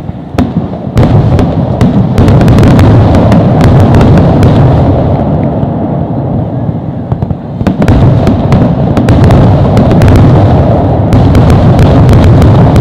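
A fireworks display going off in rapid succession: a continuous heavy rumble of bursts, thick with sharp crackles. It eases briefly about seven seconds in, then builds again.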